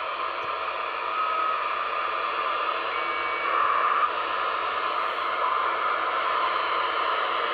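Radio receiver hiss and static, with a few faint short tones about one and three seconds in and a slightly louder stretch near the middle. The listener takes it for distant stations coming in by skip mixed with packet radio data.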